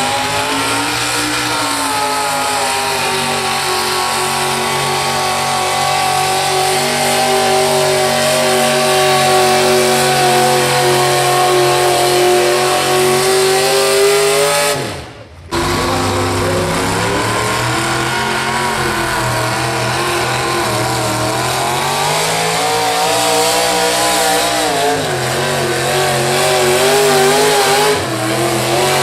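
Gasoline engine of a modified pulling pickup running hard at high revs while dragging a weight sled. The pitch climbs at first and then holds nearly steady. About halfway the sound cuts off abruptly for a moment, then the engine runs again with its pitch wavering up and down.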